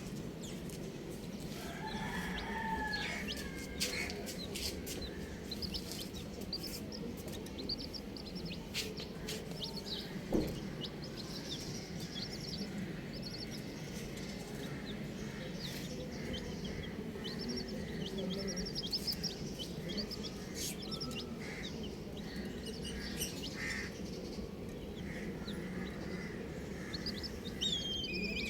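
Baby chicks peeping over and over, many short high chirps, each falling in pitch, with a few lower calls about two seconds in.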